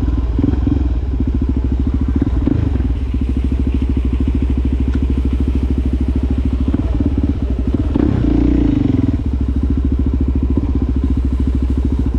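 Suzuki DRZ400SM's single-cylinder four-stroke engine running through a Yoshimura exhaust as the bike rolls along at low speed. The engine note is steady, with a brief louder throttle rise about eight seconds in.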